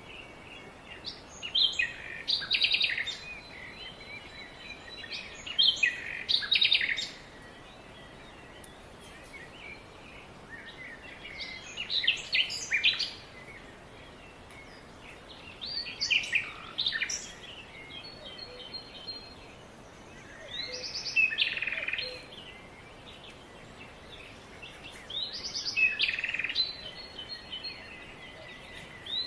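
Songbirds chirping and trilling in short bursts of a second or two, every few seconds, over a faint steady background hiss.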